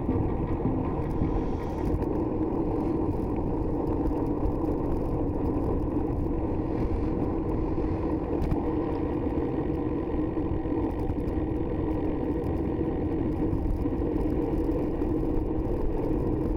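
Steady, muffled low rumble of a vehicle, as heard from inside a car's cabin.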